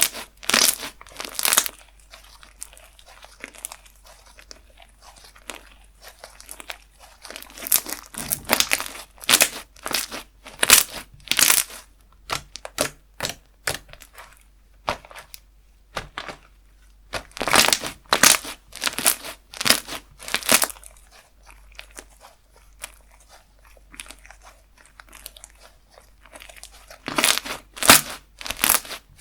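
Slime being squeezed, pressed and stretched by hand, giving clusters of sharp clicky crackles and pops from trapped air, in several bursts with quieter stretches between.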